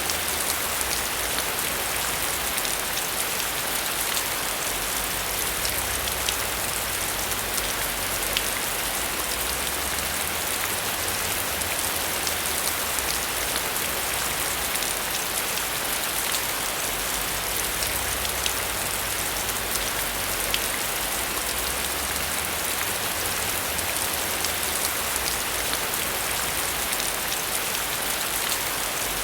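Steady heavy rain falling on a surface, an even hiss with many fine drop ticks.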